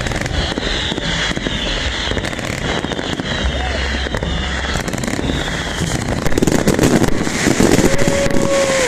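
New Year fireworks bursting and crackling without a break, the crackle growing louder about six seconds in. A long held tone sounds near the end.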